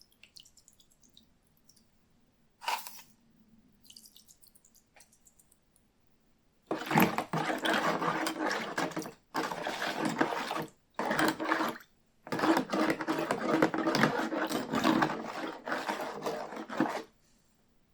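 Water running hard in four bursts with short breaks, after a few faint drips and a single knock near the start.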